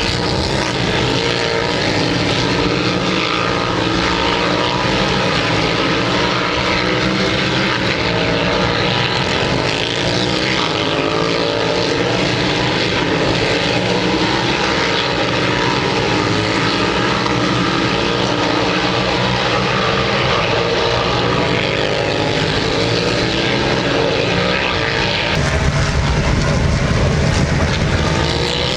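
Superbike engines running together on the circuit, with many pitches rising and falling as the bikes rev and change gear; the low rumble gets heavier a few seconds before the end.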